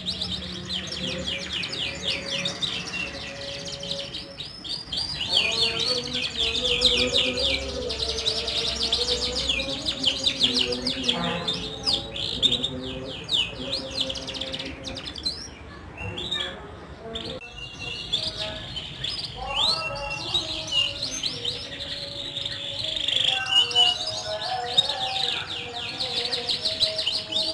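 A group of domestic canaries singing: fast, continuous high trills and rolls, several birds overlapping. Lower-pitched tones sound beneath them for long stretches. This is the kind of group canary song played as a lure to set reluctant canaries singing.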